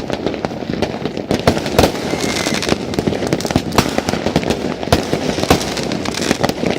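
Many fireworks going off at once: a dense, irregular barrage of bangs and crackles over a steady rumble, with a few louder bursts standing out.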